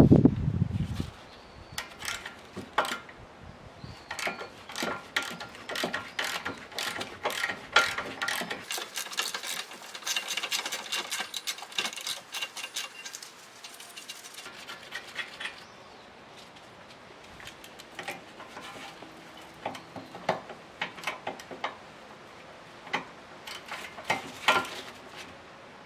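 Metal hand tools at work on a car: scattered clicks and clinks, with a run of fast clicking from about eight to fifteen seconds in, and a low thump right at the start.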